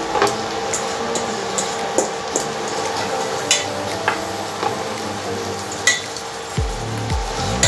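Chopped spinach sizzling on a spiced onion-tomato base in a stainless steel pot, stirred with a spatula that knocks against the pot about seven times. Low background music comes in near the end.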